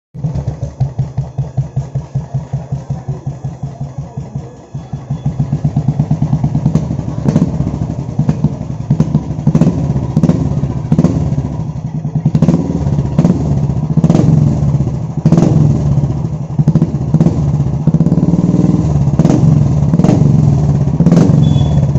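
Royal Enfield Classic 350 single-cylinder engine breathing through an AEW GT-Megaphone silencer, at first idling with a slow, even thump of about four beats a second. From about five seconds in it is revved harder, with a string of sharp cracks from the exhaust over the faster, heavier beat.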